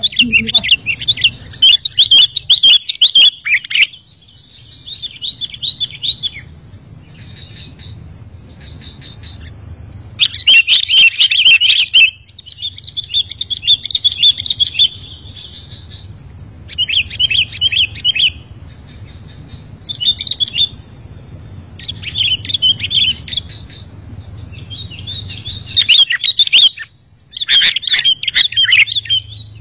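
Sooty-headed bulbul (kutilang) singing in bursts of quick, high chirping phrases separated by short pauses, with a low steady rumble underneath.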